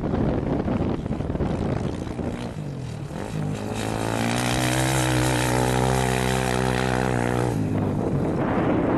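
Wind buffeting the microphone. A loud engine note comes in, dips in pitch, then holds steady for about four seconds before cutting off suddenly.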